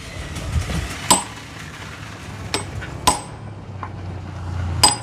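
Metal striking metal in a workshop: four sharp, ringing clinks spaced about a second apart, over a low steady hum that grows louder near the end.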